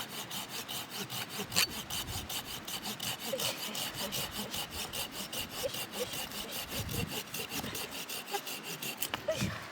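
Hand saw cutting through firewood with steady, even strokes.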